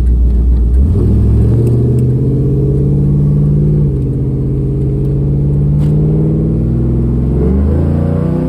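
A 408 cubic-inch stroker LQ4 V8 with a big cam pulls a Pontiac Firebird Trans Am along the road, heard from inside the cabin. The engine's pitch rises about a second in, dips briefly around four seconds in, then climbs again near the end as the revs rise.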